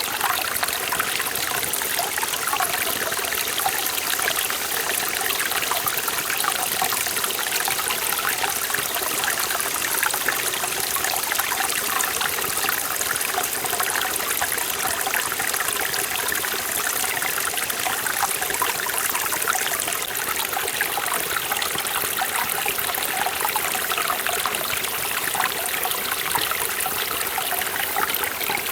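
Mountain stream in a forest valley flowing steadily over rocks, a continuous bright rush with fine splashing and gurgling.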